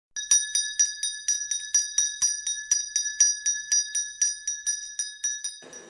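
A small bell rung rapidly and steadily, about four strikes a second, each strike ringing at the same high pitch; the ringing stops shortly before the end.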